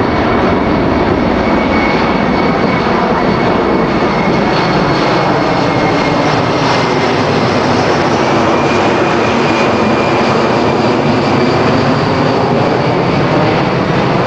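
Boeing C-17 Globemaster III's four Pratt & Whitney F117 turbofans running loud and steady as the heavy jet flies a low, slow pass with slats and flaps extended. A faint high whine drifts slowly in pitch over the engine noise.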